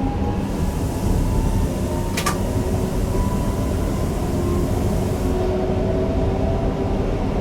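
Newag Impuls EN63 electric multiple unit running along the line, heard from the driver's cab: a steady rumble of wheels on rail with the thin whine of the traction motors gliding slightly in pitch. A short sharp tick about two seconds in.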